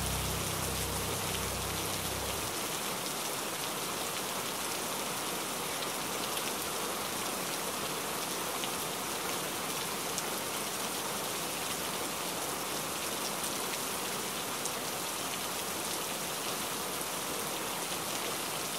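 Steady rain on window glass, an even hiss with scattered drop ticks. The last of the background music fades out in the first couple of seconds.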